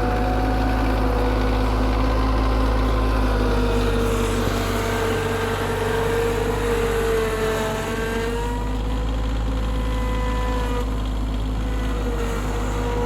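Tractor engine running at steady revs, its pitch sagging slightly a few seconds in and recovering, as if briefly under load.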